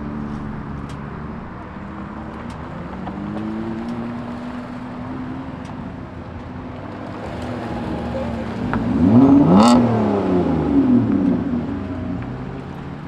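Cars pulling away with their engines running, one pitch slowly rising a few seconds in. About nine seconds in, a car engine revs hard, its pitch climbing sharply and falling back over about two seconds; this is the loudest moment.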